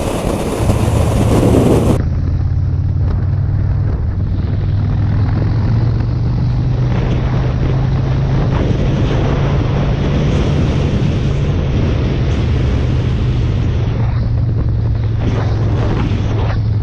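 Motorcycle engine running at a steady cruising speed, with wind noise buffeting the microphone; the sound changes abruptly about two seconds in.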